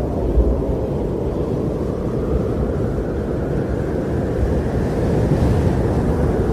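Wind blowing steadily in a low, rushing rumble that swells slightly about five seconds in.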